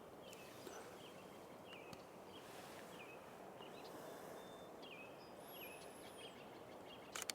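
Faint steady rush of a river with a small bird calling over it in short, repeated chirps, and a thin high whistle that falls in pitch about two-thirds of the way through. A sharp click near the end.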